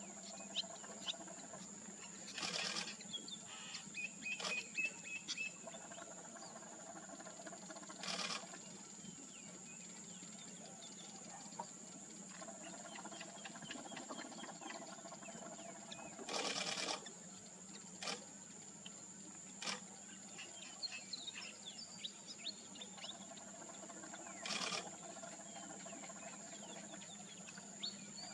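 A steady, high-pitched insect drone, with scattered faint bird chirps and short sweeping calls. About seven brief bursts of noise stand out as the loudest sounds.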